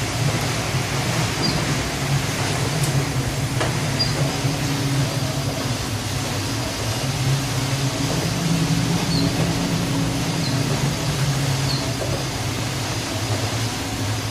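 Steady low mechanical drone under a constant wash of noise, with a few faint, short high chirps scattered through it.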